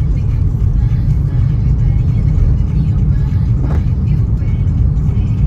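Car driving in rain: a steady low rumble of engine and tyres on the road, with a brief swish a little under four seconds in.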